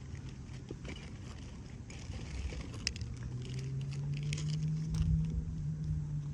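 A low, steady engine hum that swells about halfway through and eases toward the end, with faint scattered clicks.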